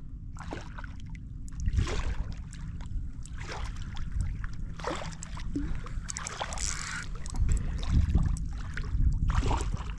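Water splashing and sloshing against a kayak hull in repeated short splashes, over a low steady rumble.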